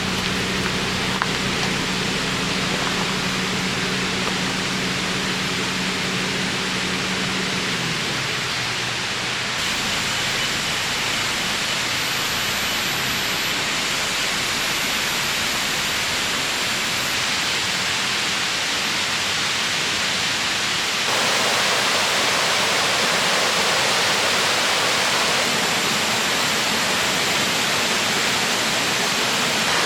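River water rushing over rocks, a steady loud rush that changes abruptly twice and is louder and brighter from about two-thirds of the way in. A held low musical tone sounds under it for the first eight seconds or so, then fades out.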